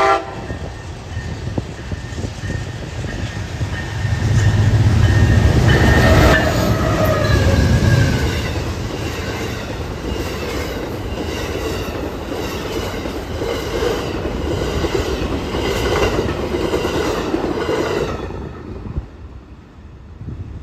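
Amtrak passenger train passing close by. It opens with a brief horn note, then the locomotive rumbles past about four to eight seconds in, its pitch falling as it goes by. The cars' wheels then clack in an even rhythm over the rails until the sound drops away near the end.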